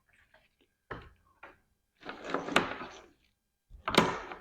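Handling noise of a wiring harness and its packaging being sorted: rustling with a few sharp knocks, the loudest near the end.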